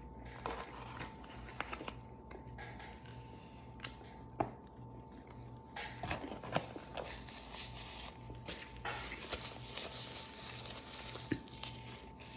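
Faint chewing of a mouthful of chicken sandwich: scattered soft mouth clicks and small crunches, over a faint steady hum.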